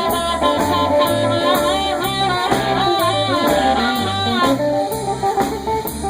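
Blues band instrumental break: horns hold chords over a bass pulsing about twice a second, with the texture thinning to guitar about four and a half seconds in.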